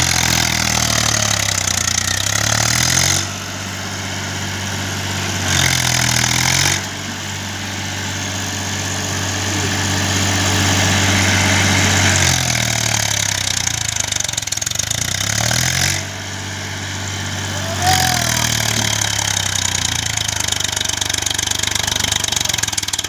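Swaraj tractor's diesel engine revving hard and easing off again and again, its pitch dropping and climbing several times, as it strains under load to pull the stuck tractor free.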